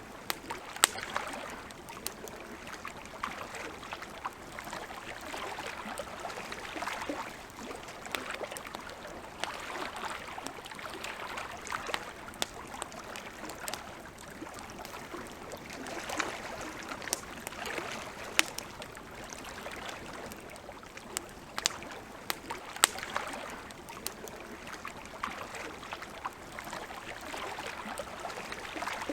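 Wood campfire crackling, with sharp scattered pops, over a soft splashing of small waves lapping at the shore that swells and fades every few seconds.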